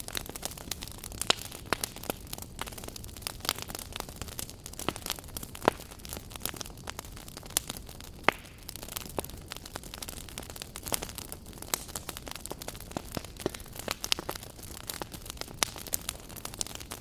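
Wood fire burning in a fireplace, a steady low rumble of flame with frequent irregular sharp crackles and pops. A few pops are louder, the loudest about eight seconds in.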